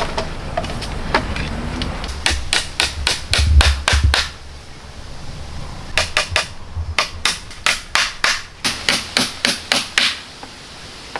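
Rapid hammer blows in two runs of about four to five strikes a second, the first ending about four seconds in and the second running from about six to ten seconds in.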